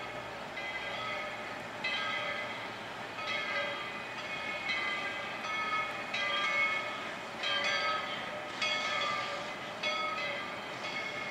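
Steam locomotive bell ringing steadily, a clanging stroke about once a second, each ring fading before the next.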